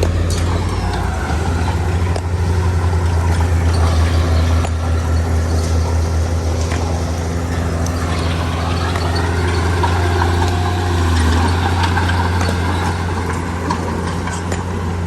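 Heavy diesel engine of construction machinery running steadily with a deep drone. Its pitch dips and then rises again around the middle, with small clicks and rattles throughout.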